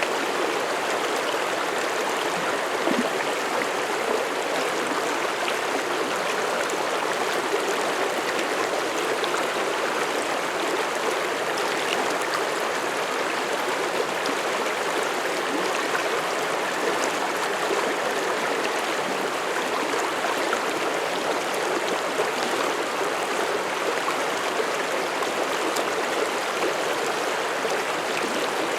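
Mountain stream flowing over rocks: a steady rushing and babbling of water that does not change.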